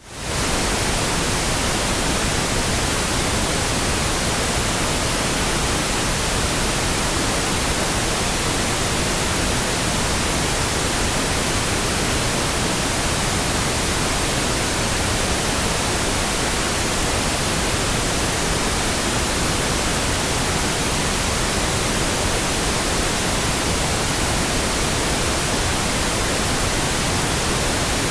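Steady pink noise, an even hiss without any tones, fading in over the first half-second.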